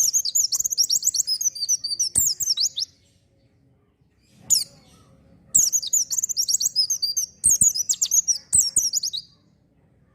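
A white-eye (pleci) singing energetically in fast, high twittering phrases. One run of song lasts about three seconds from the start, and a second, longer run begins just before halfway and stops near the end.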